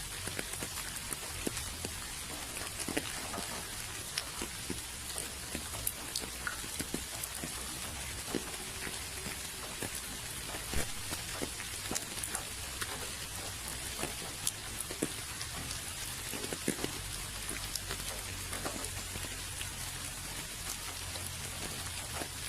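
Steady rain falling, a constant hiss with individual drops tapping at irregular moments.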